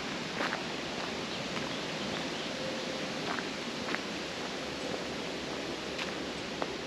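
Steady rustling bush ambience of a warm temperate rainforest track, with a few faint scattered ticks and a faint held note near the middle.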